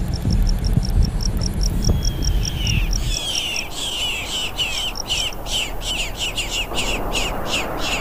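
Birds calling: a quick series of sharp, descending notes, about three a second, louder from about halfway. Over the first half, a high pip repeating about four times a second and a low rumble that fades out about three seconds in.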